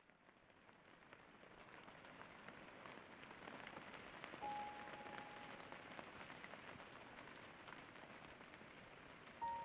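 Rain falling steadily with a fine patter, faded in from silence at the start. A brief clear ringing tone sounds about four and a half seconds in, and a louder one just before the end.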